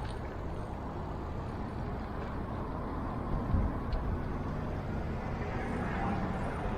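Steady low rumble of wind and road noise while riding a bicycle with the camera held in hand, with a short knock about three and a half seconds in.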